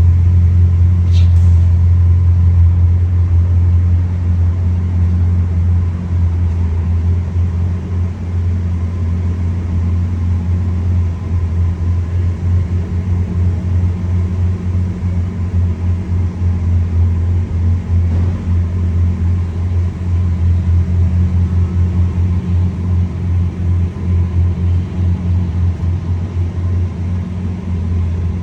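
A car engine idling with a deep, steady rumble.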